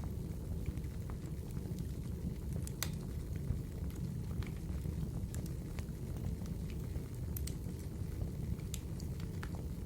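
Wood fire burning in a fireplace: a steady low rumble of the flames with scattered sharp crackles and pops, the loudest about three seconds in and around seven and a half seconds in.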